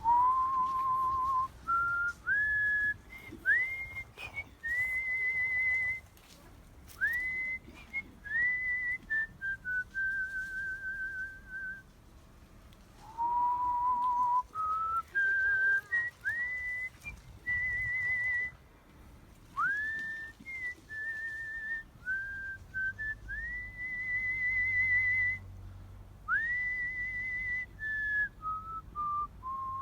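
Artistic whistling: a man whistling a melody by mouth in clear, pure notes with vibrato, often sliding up into each note, phrased with short breaks and one longer pause about twelve seconds in.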